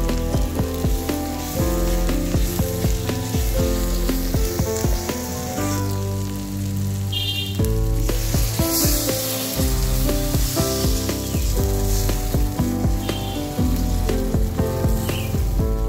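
Climbing perch and spice paste sizzling in mustard oil in a wok, with a metal spatula scraping and stirring. Background music with a melody plays along with it.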